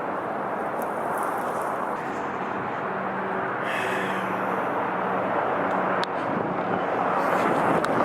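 Steady rushing background noise with a faint low hum, the kind heard from a running vehicle or nearby traffic.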